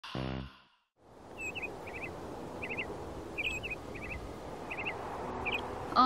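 A brief voiced sigh or laugh at the very start, then steady outdoor ambience with a small bird chirping in quick clusters of two or three high notes, repeating every second or so.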